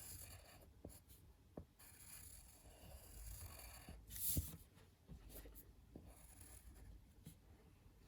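Faint scratching of a drawing or colouring tool on paper in short strokes, with one louder stroke about four seconds in.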